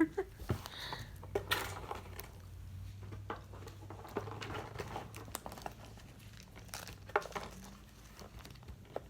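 A plastic candy-bar wrapper crinkling and rustling as it is handled, with scattered small crackles and clicks.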